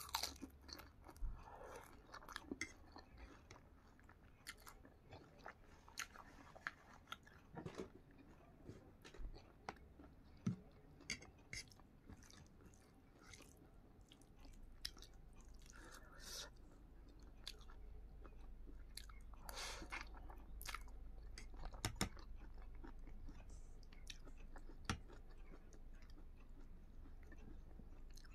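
Close, faint chewing and mouth sounds of someone eating fried egg and soft noodles, with scattered light clicks and smacks. A faint low hum comes in about halfway.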